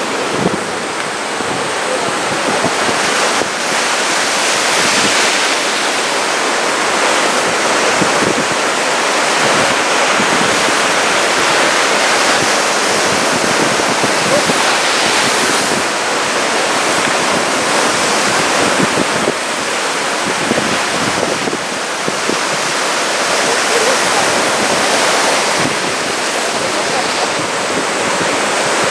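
Ocean surf: a continuous wash of breaking waves that swells and eases slowly.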